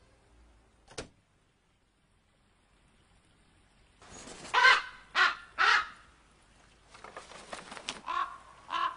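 Common raven calling: three loud, harsh croaks in quick succession about halfway through, then two more near the end. A single sharp knock sounds about a second in, and a run of faint quick taps comes just before the last calls.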